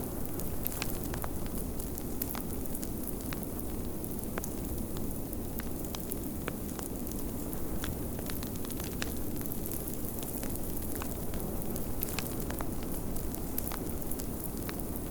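Fireplace crackling, with many small irregular pops scattered throughout, over a steady low rumble of blizzard wind.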